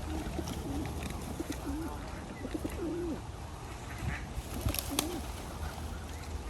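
Pigeons cooing, a string of short, low, wavering coos, with two sharp clicks about five seconds in, over a steady low rumble.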